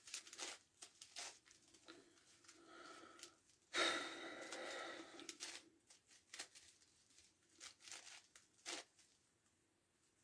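Plastic layers of a 9x9x9 Rubik's Cube being turned, with short clicks and scrapes and a longer, louder scrape about four seconds in.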